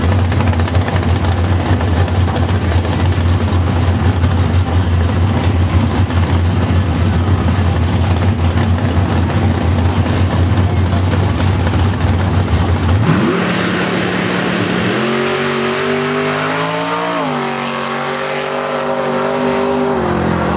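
Drag racing car's engine running loud and steady for most of the time. About two-thirds through, the sound changes to a rising sweep, and the revs then climb and dip.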